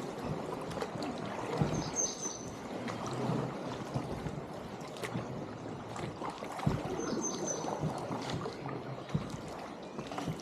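Water splashing and trickling around a small paddled boat on a river, with irregular paddle splashes and drips. Two short high chirps sound about five seconds apart.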